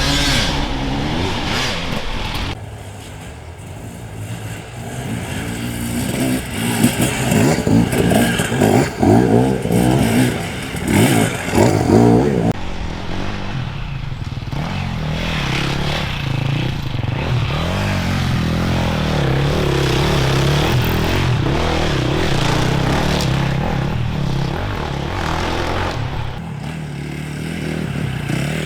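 Enduro dirt bike engines revving and changing pitch as riders pass over rough ground, loudest in a busy stretch about a third of the way in. After that, a steadier engine note holds for most of the rest.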